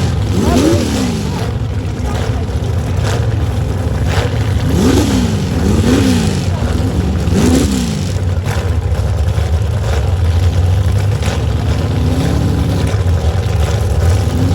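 Mud-bog truck engine revving in short bursts, the pitch rising and falling quickly, over a steady low engine drone. Three revs come in quick succession about five seconds in, and a slower rise follows near the end.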